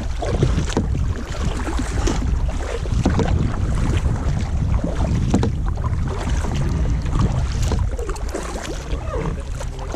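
Wind buffeting the microphone from a kayak on open water, a steady low rumble, with scattered small splashes and knocks from paddling.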